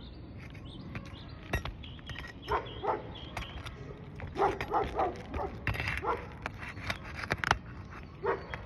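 A dog barking several times, mostly in the middle stretch, over sharp clicks and scrapes of asphalt 3-tab shingles being pried loose on a roof.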